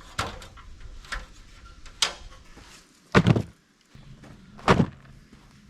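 Irregular knocks and bangs of metal roofing sheets being handled and set in place, about five strikes, the two heaviest about three seconds and almost five seconds in.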